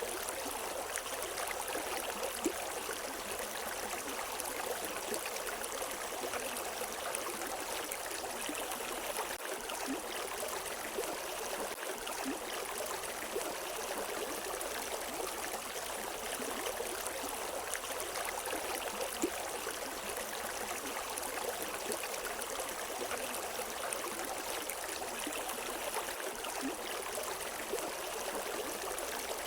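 River water running steadily over rocks, a continuous rushing and babbling with small splashes here and there and no birdsong.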